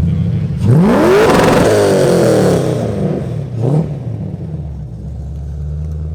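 A car engine idling, then revved sharply about a second in, the revs falling back over a couple of seconds, followed by a second short blip of the throttle before it settles back to idle.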